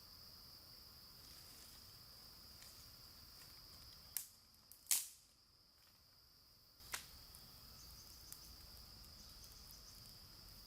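Steady high chirring of insects, broken a little before the middle by a few sharp clicks, the loudest about five seconds in and a last one about seven seconds in.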